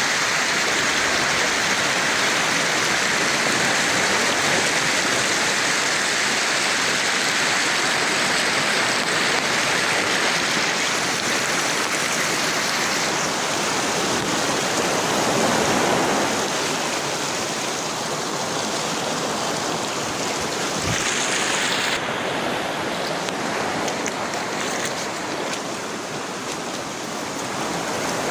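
Water rushing steadily over a waterfall and down its stream. The sound shifts twice, about halfway through and again some three-quarters through, where it turns less hissy.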